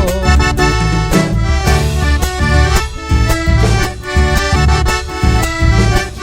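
Live Argentine chacarera played on accordion, which holds chords and carries the melody in an instrumental passage between sung verses, over a steady low drum beat.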